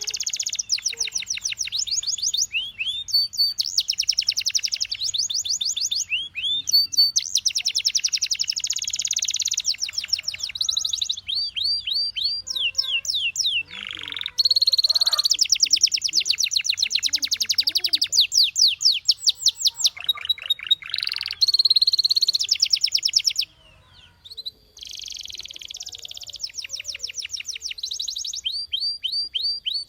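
Domestic canary singing a long song of rapid trills: fast runs of repeated high notes in phrases a few seconds long, with a brief pause about two-thirds of the way through.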